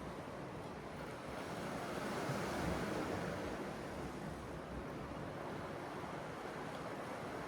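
Sea surf washing in a steady wash of noise, with one wave swelling up a couple of seconds in and then easing off.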